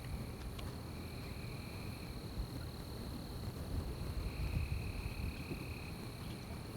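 Night forest ambience: insects trilling, one a steady high trill throughout and another lower one in stretches of a second or two, over a low rumble.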